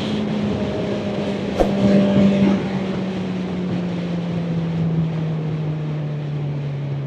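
Kawasaki Ninja ZX-4RR's inline-four engine running steadily while the motorcycle is ridden, its pitch slowly falling as the revs drop, over a rush of wind noise. A single sharp click about a second and a half in.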